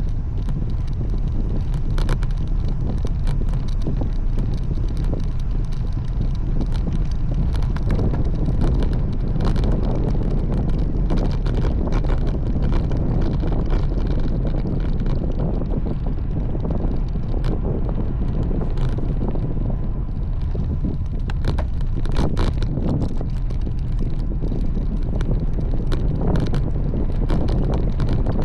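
Wind rushing over the microphone of a camera on a moving road bike: a heavy, steady low rumble with scattered sharp clicks and rattles throughout.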